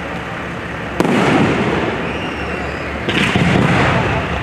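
Fireworks display: two aerial shells burst, about a second in and again about three seconds in, each bang followed by a rolling rumble that dies away, over a steady background hiss.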